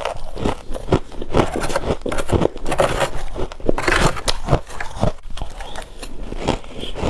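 Freezer frost being bitten and chewed close up: a dense, irregular run of crunches and crackles.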